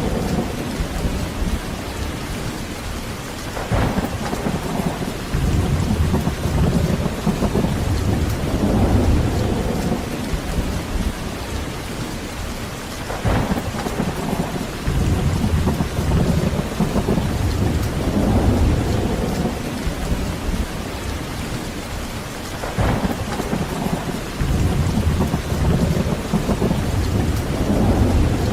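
Heavy, continuous rain with rolling thunder that swells and fades over and over. Every nine or ten seconds a sharper thunder clap sets off a fresh rumble.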